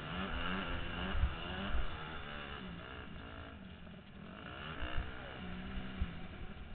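Motocross bike engine revving hard, its pitch climbing and dropping again and again as the rider works the throttle and gears, heard from a helmet-mounted camera. A few low thumps come through about a second in, near two seconds, and twice more later.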